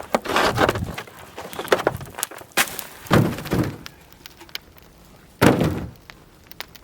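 A series of knocks and thumps, heavy thuds about three and five and a half seconds in, with lighter clicks between them.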